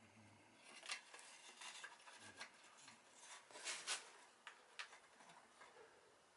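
Faint clicks and short scrapes of small hard objects being handled, a burst of several sharp clicks about a second in and again near the middle.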